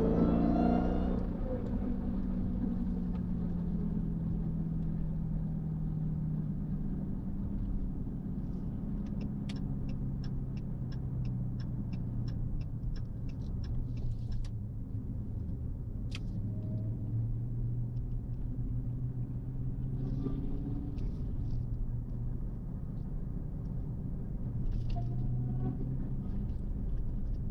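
The supercharged 6.2-litre Hemi V8 of a Dodge Charger Hellcat winds down in pitch right after a hard pull, then runs steadily at cruising speed, its note drifting slightly up and down. About a third of the way in comes a run of evenly spaced light ticks.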